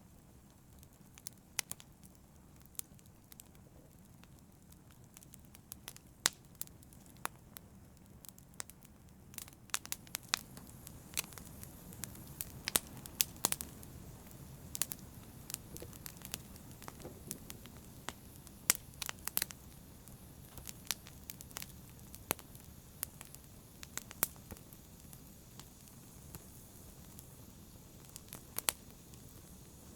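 Wood fire burning in a fireplace: irregular sharp crackles and pops over a low steady rumble of the flames, the pops coming more often from about ten seconds in.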